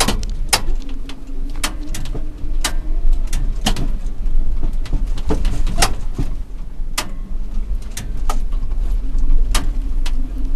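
Smith Cabac electric truck, an ex-milk float, driving uphill under a heavy load: a steady low hum and rumble from the running vehicle, broken by frequent irregular knocks and rattles.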